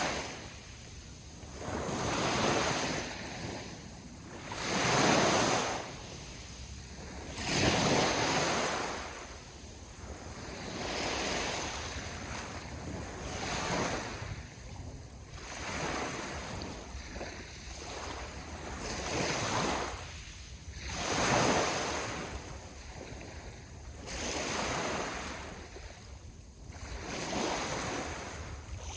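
Sea waves washing onto the shore, each breaking wave swelling up and fading away every two to four seconds, with light wind on the microphone.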